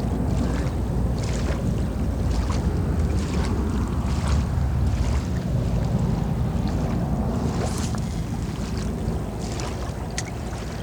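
Steady low rumble of wind buffeting the microphone over the sound of moving water, with a few faint ticks on top.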